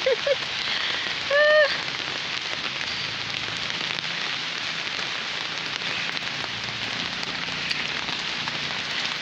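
Steady rain falling, an even hiss throughout. About a second and a half in, one short pitched call cuts over it.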